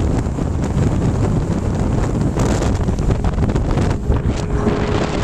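Wind buffeting the microphone aboard a boat running at planing speed, a steady loud rumble. Underneath it are the Yamaha 150 two-stroke outboard at speed and the rush of water along the hull.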